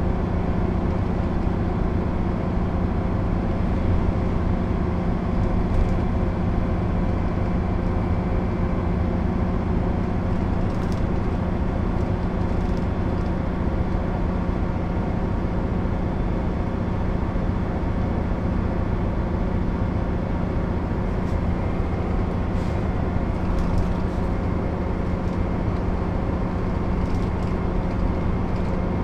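Mercedes-Benz O 407 bus's six-cylinder diesel engine running at a steady speed and load, its note holding constant with no gear changes, over road noise and a few faint rattles.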